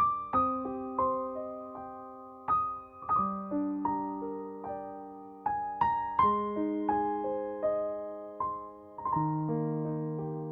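Background music: slow, gentle solo piano, single notes and chords struck one after another, each ringing and fading before the next.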